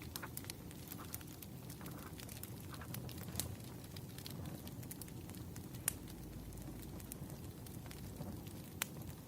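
Wood fire burning with a steady low rumble and irregular sharp crackles and pops, three of them louder, at about a third of the way in, past halfway, and near the end.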